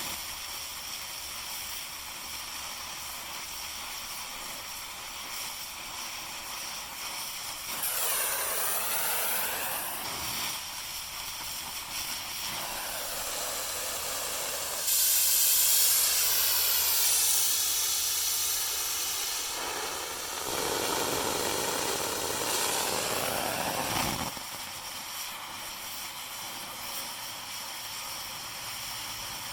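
Oxy-fuel cutting torch hissing steadily. It grows louder three times, for a few seconds each, about 8, 15 and 20 seconds in.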